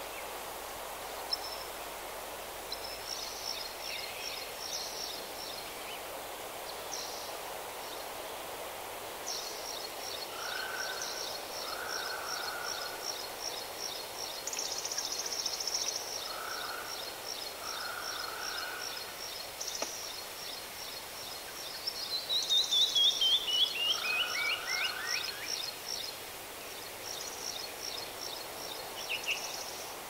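Songbirds calling over a steady outdoor hiss: high, rapidly repeated trills and chirps with some lower short notes. About 22 seconds in, one bird sings a fast run of notes that falls in pitch, the loudest part.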